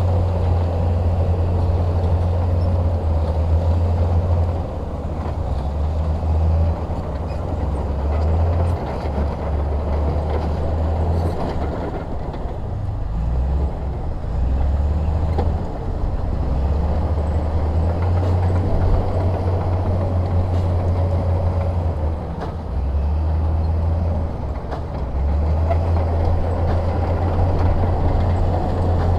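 Heavy diesel engine of earthmoving machinery running under load. Its deep rumble steps up and down in pitch every few seconds as throttle and load change.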